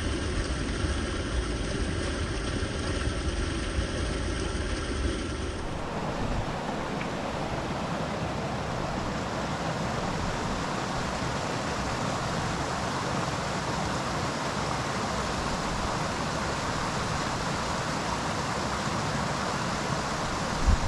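Steady rush of flowing river water, an even noise that changes character slightly about six seconds in.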